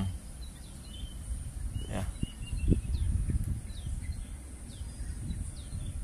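A few short, high bird chirps scattered over a low rumble of outdoor and handling noise, with a single click about two seconds in.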